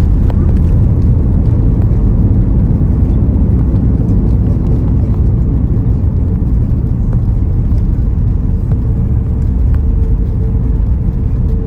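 Cabin noise inside an Airbus A340-600 airliner: a loud, steady low rumble of engines and airflow, with a faint steady hum above it.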